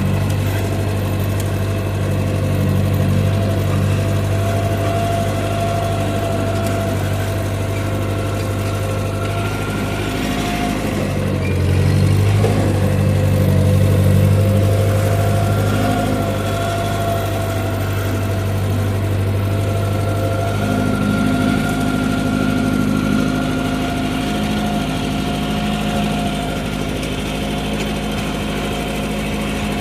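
Ford 8N tractor's four-cylinder flathead engine running steadily, louder and deeper for a few seconds about twelve seconds in.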